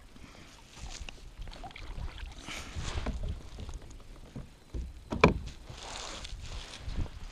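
Small sounds of a fishing kayak: low rumble, two soft water-like swishes, and one sharp knock a little after five seconds in, the loudest sound.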